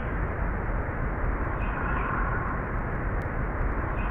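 Low-pass-filtered field recording with a steady hiss. A faint, short purring sound comes through about two seconds in and again at the very end, described as a breathy purr like a distant woodpecker's.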